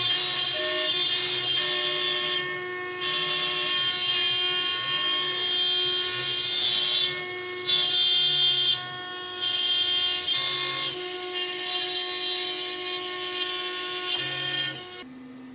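CNC router spindle running an end mill through birch wood, with a steady high whine and a hissy cutting noise that drops out briefly a few times as the cut pauses. Stepper motors hum at lower pitches that shift in steps as the machine moves. The cutting noise falls away near the end.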